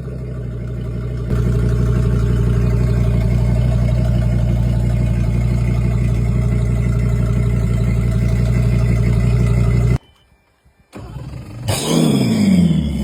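Outboard motor running at a steady speed, a little louder from about a second in. It cuts off suddenly about ten seconds in; after a second of near silence an engine comes back near the end with its pitch sweeping down and then up.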